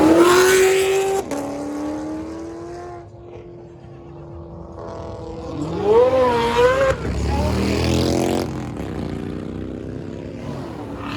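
Car engines revving hard: one climbs to high revs and holds briefly before dropping away, and about six seconds in another rises and falls twice, followed by a loud burst of noise that fades.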